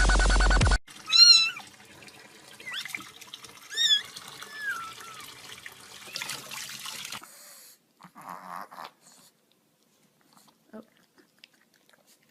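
Domestic cat meowing several times, the loudest call about a second in, over a faint steady hiss of running water that stops about seven seconds in. Electronic dance music cuts off just before the first meow.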